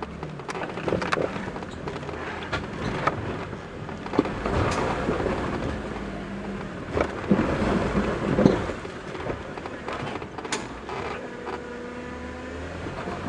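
Off-road vehicle crawling over rock: a low rumble from the engine and drivetrain with repeated knocks and clatter as the tyres climb and bump over the rock. Near the end the engine settles into a steady drone.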